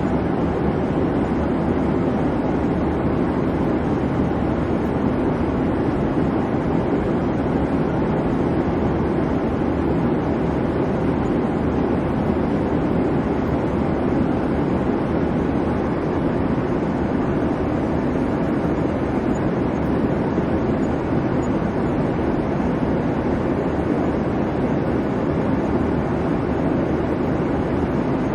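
Airplane cabin noise: a constant low rumble and hum of the engines and rushing air, even and unchanging throughout.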